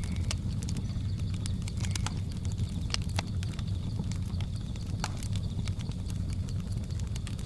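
Wood fire crackling, with irregular sharp pops over a steady low rumble, and a faint steady high-pitched hum of jungle ambience underneath.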